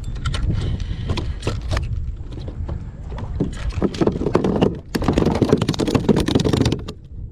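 Knocking, clattering and splashing from a hooked fish being brought aboard a kayak and thrashing, with wind rumble on the microphone. The commotion grows to its busiest over the second half.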